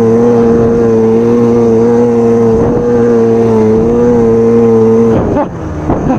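Snowmobile engine held at steady high revs, its pitch level, then easing off and changing about five seconds in.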